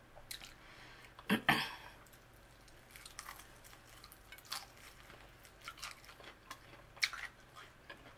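Biting and chewing a battered fried chicken wing up close: crunches and wet mouth smacks coming in scattered clicks, loudest twice about a second and a half in.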